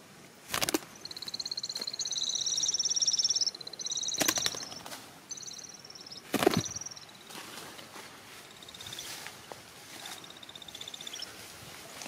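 Nestling birds in a tree hollow calling: rapid runs of high, thin chirps in two pitches from about a second in until about six seconds, then fainter runs later on. Three sharp cracks stand out, about half a second in, at about four seconds, and at about six and a half seconds.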